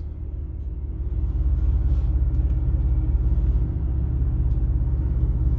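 Car engine idling with a steady low rumble, growing a little louder about a second in.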